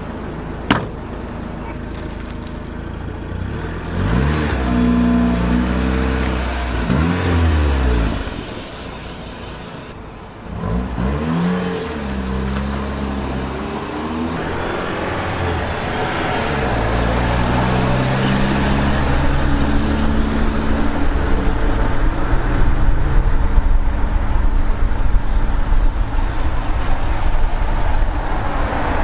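Mazda Familia driving on the road, its engine note climbing under acceleration and falling away at the gear changes several times, over steady road and wind noise that grows louder. A single sharp click comes just under a second in.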